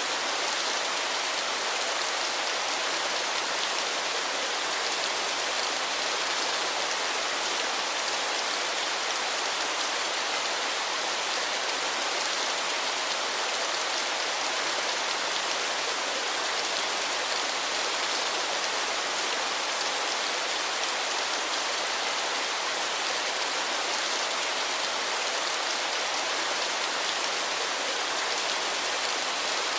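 Waterfall: a steady, even rush of falling water that does not change, mostly hiss with little deep rumble.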